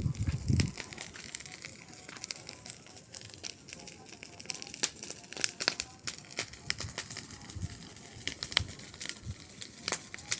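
Wood bonfire crackling, with irregular sharp pops and snaps over a soft hiss, and a brief low rumble right at the start.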